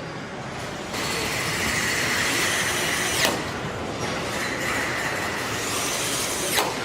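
Truck assembly-line machinery running steadily with a high whine, louder from about a second in, and two short sharp sounds that drop quickly in pitch, about three seconds apart.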